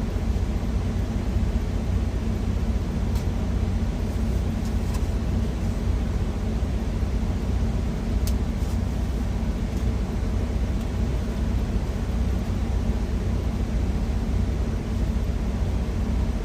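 Steady low rumble of a parked truck's engine idling, with a few faint light clicks.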